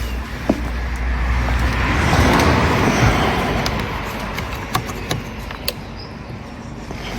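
A passing road vehicle: a broad rush that swells to a peak a couple of seconds in and then fades away, with a few small clicks of handling over it.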